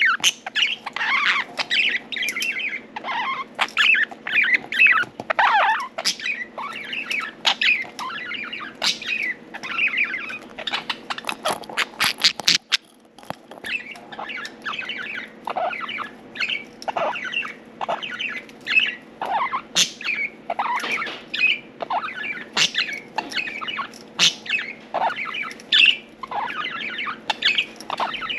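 Budgerigars chirping and warbling continuously, many short overlapping calls, with a quick run of sharp clicks about eleven to twelve seconds in. A faint steady hum lies underneath.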